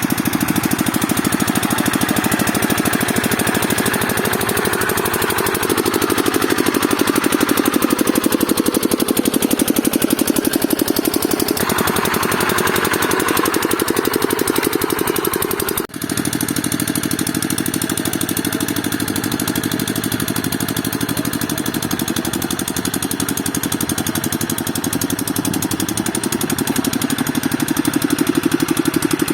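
Hand tractor engine running steadily, its speed rising and falling slightly. The sound breaks off for a split second just past halfway, then carries on.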